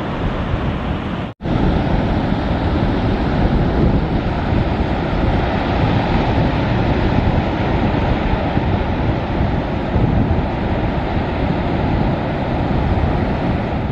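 Strong wind buffeting the microphone over the steady wash of surf, with a brief dropout about a second and a half in.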